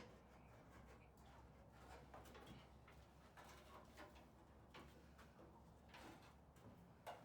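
Near silence: a low steady hum with faint, scattered clicks and taps.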